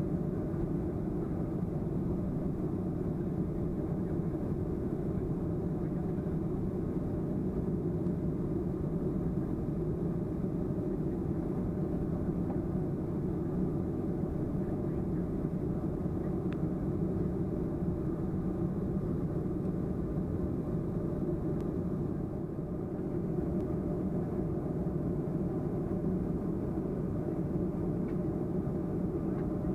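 Steady low drone of cabin noise inside a Boeing 737-300 airliner, with a faint hum of steady tones, dipping briefly about two-thirds of the way through.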